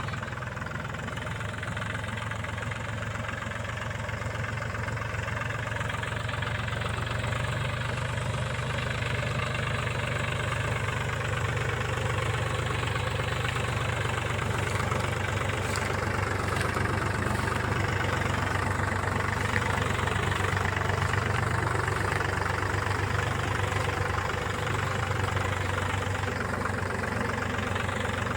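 Mahindra tractor's diesel engine running steadily, growing a little louder over the first several seconds and then holding even.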